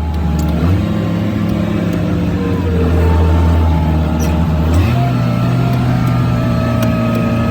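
Wheel loader's diesel engine running, its engine speed stepping up about a second in and again near five seconds, with a faint higher whine above it.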